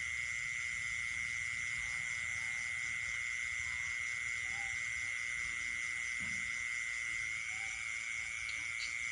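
Night chorus of insects and frogs: a steady, unbroken high trill, with fast pulsing chirps above it and a few faint short calls lower down.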